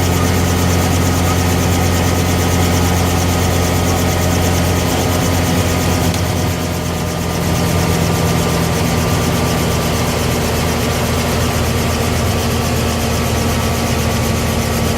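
Helicopter engine and rotors running steadily, a loud, even drone with a slight dip about halfway through.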